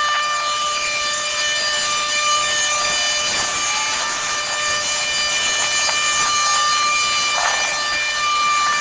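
A small power tool running steadily, a constant high-pitched hum over a hiss.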